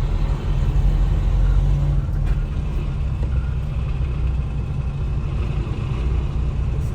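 Steady low rumble of a truck's engine and road noise, heard inside the cab while driving in traffic.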